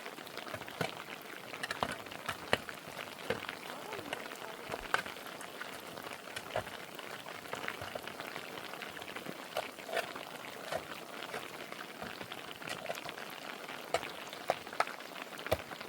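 Steady rain, with many individual drops ticking sharply and irregularly on nearby surfaces.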